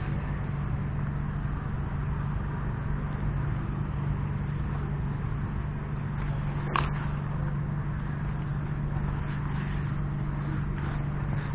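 A steady low mechanical hum with a constant drone, and a single sharp click about seven seconds in.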